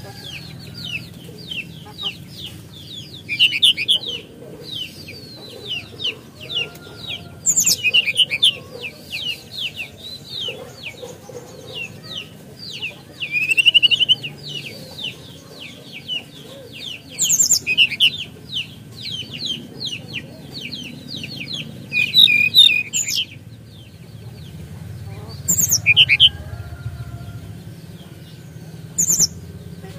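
SRDC songbird singing a long, fast run of chattering chirps and trills with rising sweeps. It breaks off briefly about 23 seconds in, then a few sparser phrases follow. Several loud, very high, sharp whistles cut in now and then.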